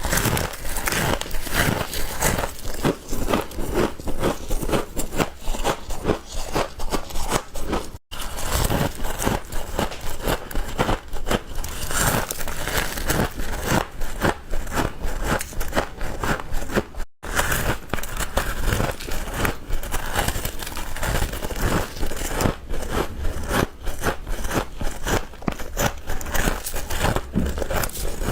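Frost being bitten and chewed close up: dense, irregular crunching and crackling throughout, broken twice by a split-second gap.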